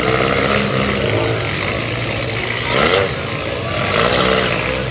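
Engines of small demolition derby cars running and revving, rising and falling in pitch, with one sharp rev about three seconds in.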